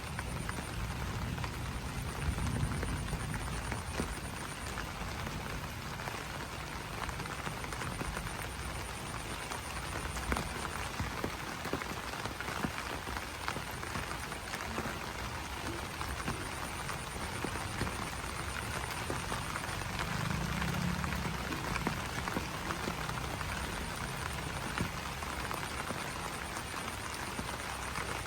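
Rain falling steadily on broad banana leaves: a dense, even patter with scattered sharper drop hits.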